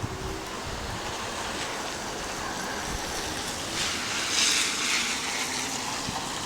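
Wind blowing outdoors, a steady rushing that swells in a stronger gust about four seconds in, ahead of an expected rain.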